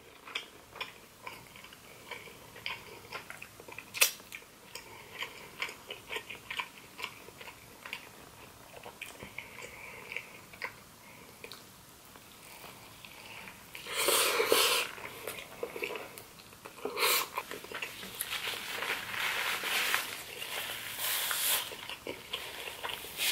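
Close-miked chewing and wet mouth sounds of eating a soft cheeseburger dipped in cheese sauce, with many small smacks and clicks. There are louder bites about 14 and 17 seconds in, and a longer noisy stretch after them.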